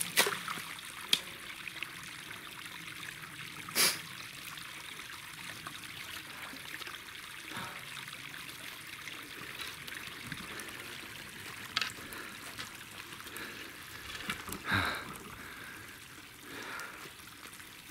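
Water trickling and running steadily, with a few sudden sharp sounds spread through, the loudest about 4 s in and another near the end.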